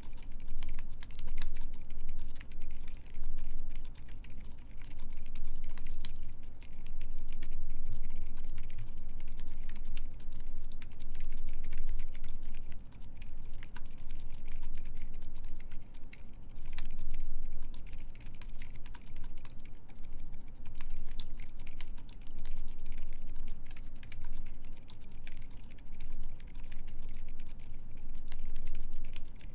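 Continuous typing on a Keycult 2/65 mechanical keyboard with lubed Silent Alpaca silent linear switches, GMK keycaps and an aluminium plate: a quick, irregular run of quiet, muffled keystrokes.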